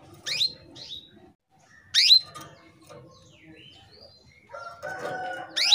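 Female canary giving short, sharp call notes, each a quick downward sweep onto a brief held note, the loudest about two seconds in. These are the calls of a hen in breeding condition calling to males. Near the end a lower, steadier sound sits beneath the calls.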